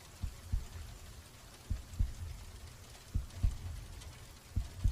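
Heartbeat sound effect: slow low lub-dub thumps, one pair about every one and a half seconds.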